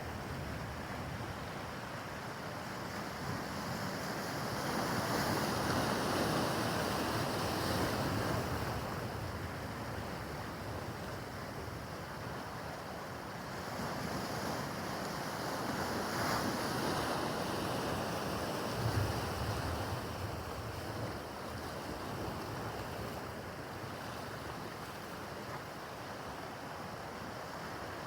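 Waves washing in on rough harbor water, with wind buffeting the microphone. The sound swells twice, about five seconds in and again around sixteen seconds.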